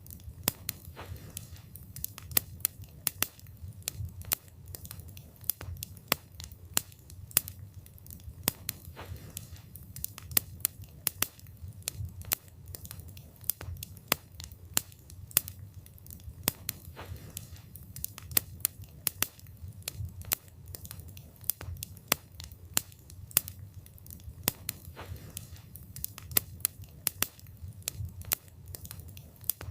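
Wood fire burning, with the wood crackling and popping in irregular sharp snaps several times a second over a low, steady rumble of the flames.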